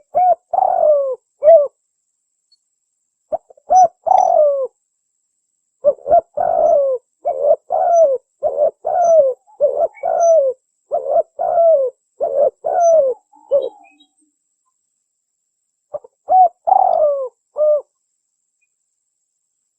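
Spotted dove cooing in repeated phrases of short, low, down-slurred coos. A long unbroken run of coos fills the middle, with pauses of a second or two between the other phrases.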